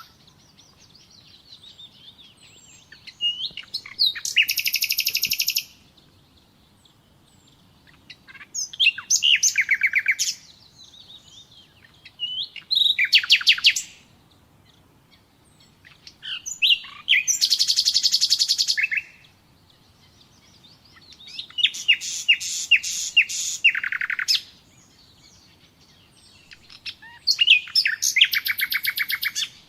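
Common nightingale singing: about six separate phrases, each a fast run of repeated high notes and trills, with pauses of two to three seconds between phrases.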